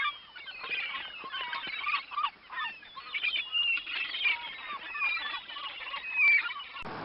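A flock of birds calling, many short overlapping calls.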